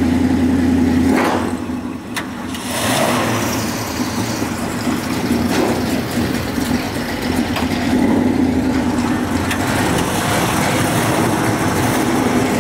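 Classic Chevrolet Chevelle's engine running at idle, its steady low note shifting about a second in, then carrying on as the car pulls out of its parking spot near the end.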